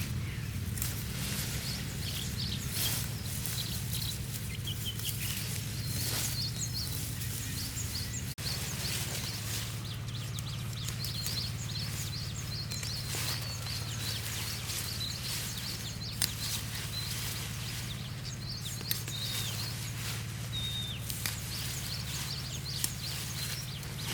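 Small birds chirping in short repeated calls over a steady low hum, with scattered soft knocks, most of them in the first third.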